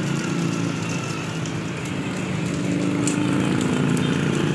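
A steady low mechanical hum over a background hiss.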